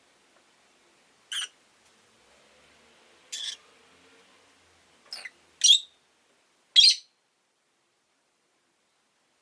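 Rosy-faced lovebirds giving short, sharp, high chirps: five single calls spaced a second or two apart, the last two the loudest.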